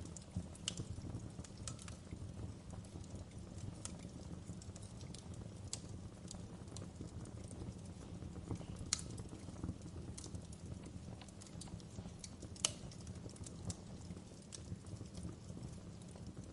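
Wood fire crackling: irregular small pops and snaps, two of them sharper, over a low steady rumble.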